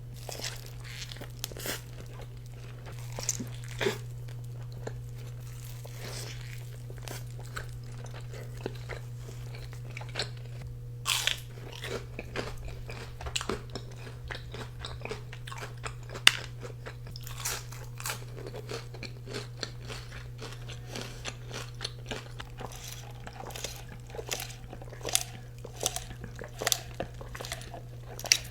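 Close-miked eating: repeated crunchy bites and chewing of fast food, over a steady low hum.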